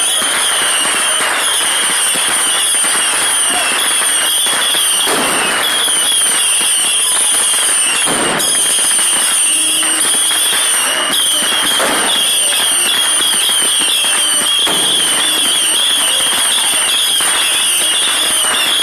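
Fireworks display going off nonstop and loud: dense crackling and rapid pops, with heavier bangs standing out every few seconds.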